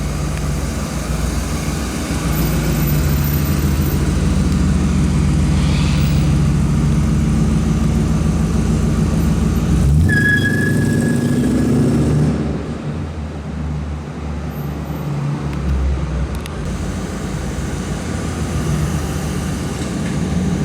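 1956 Buick Special's 5.3-litre fuel-injected Vortec V8 running, with a steady exhaust note. The sound changes abruptly about ten seconds in, with a short rise in pitch just after.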